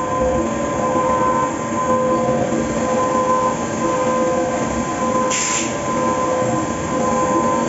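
Fagima Jazz M 5-axis CNC milling machine cutting a part: a steady machining noise with several held whining tones from the spindle and cutter, and a brief hiss about five seconds in.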